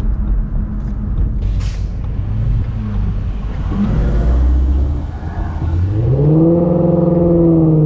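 Shelby GT350's 5.2-litre flat-plane-crank V8 breathing through Kooks long-tube headers and exhaust: a low rumble, then the revs rise about six seconds in and hold a steady higher note.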